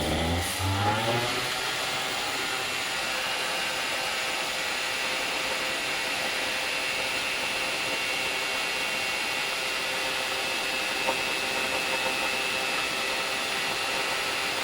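Warm two-stroke paramotor engine driving a 125 cm three-blade carbon fiber propeller, revving up over the first second or two and then held at steady high revs, with a dense rushing hiss from the propeller.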